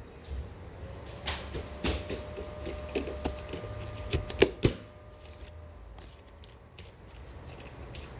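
A run of sharp clicks and knocks over about three seconds, the loudest two near the middle, over a faint thin squeak, like a cupboard or door being worked; then quiet room noise.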